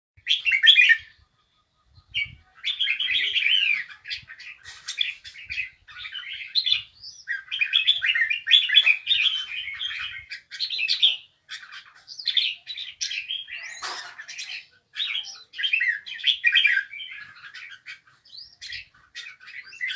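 A songbird singing: rapid, varied warbling phrases in bursts of a second or two, with short gaps between them and one longer pause about a second in.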